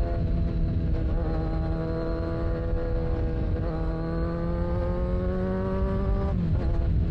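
Kawasaki Z1000's inline-four engine through a full TOCE exhaust, pulling under throttle with its note climbing steadily. The note breaks about a second in and again a little past halfway, as on gear changes, then drops away near the end as the throttle closes. A dense low rumble runs underneath.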